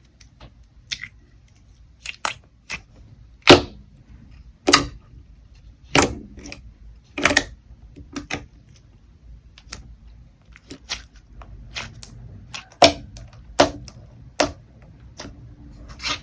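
Slime being pressed and worked by hand, giving a run of sharp, irregular pops and clicks, the loudest about a second apart.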